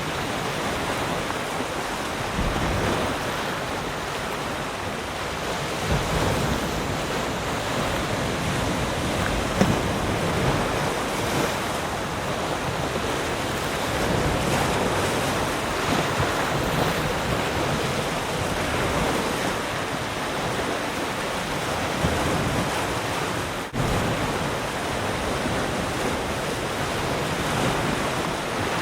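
Ocean surf: waves breaking and washing ashore in a steady, continuous rush with gentle swells in loudness. There is a very brief drop-out about two-thirds of the way through.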